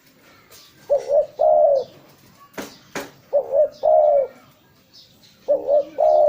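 Spotted dove (tekukur) cooing: three phrases, each a short double note followed by a longer note, repeated about every two and a half seconds. Two sharp clicks sound between the first and second phrase.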